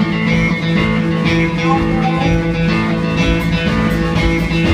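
Live band playing a country tune between sung lines, with a guitar to the fore over steady drums.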